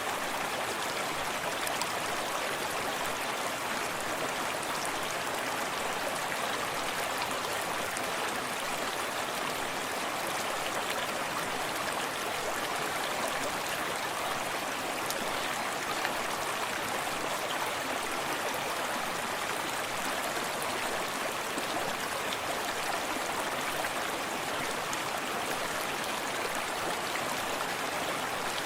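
A shallow forest stream running steadily, with a close-up splash and trickle of water over stones.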